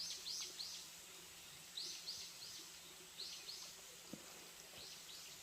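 A bird calling: short high chirps that slide downward, given in quick runs of three or four and repeated every second or two.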